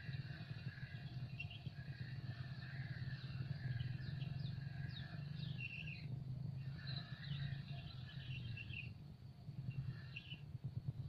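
Small birds chirping and trilling, with a run of quick falling chirps in the middle, over a steady low hum.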